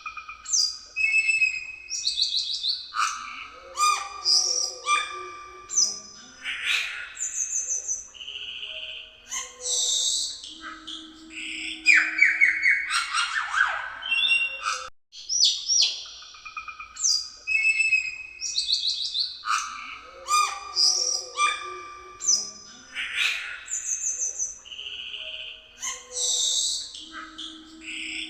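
Cucak keling songbird singing a busy, varied song of clear whistles, rapid trills and harsh chattering notes. The same sequence of phrases repeats about every 14 seconds, as in a looped recording.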